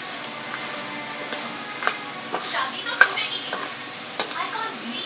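Goat trotter masala frying and sizzling in a metal kadai while a metal ladle stirs and scrapes through it, with several sharp clinks of the ladle on the pan, the loudest about three seconds in.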